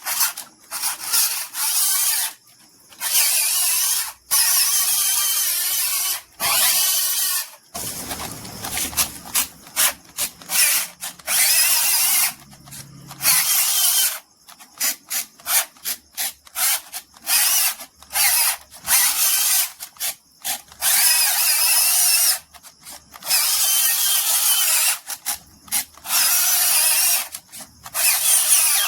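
A tool working material in stop-start bursts of rasping noise, some short and some several seconds long, with a denser, fuller stretch from about 8 to 13 seconds in.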